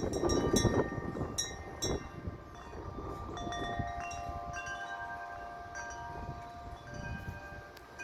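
Wind chime blown by gusty wind, struck many times and ringing with several overlapping bell-like tones. Strong gusts rumble on the microphone for the first couple of seconds, then ease while the tones ring on.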